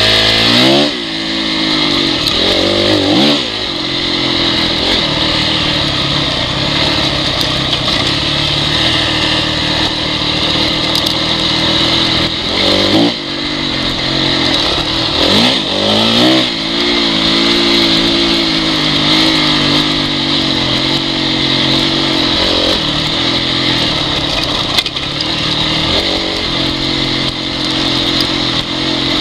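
Honda CRF four-stroke dirt bike engine running at low, fairly even revs, with quick drops and rises in engine speed a handful of times.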